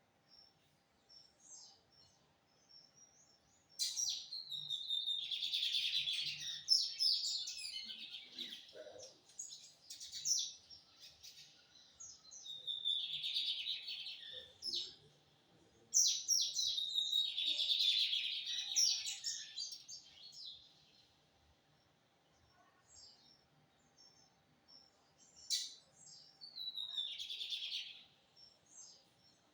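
Lined seedeater (bigodinho) singing in four bouts of rapid, chattering, high notes, the first two long and the last short, with soft single chirps in the pauses between.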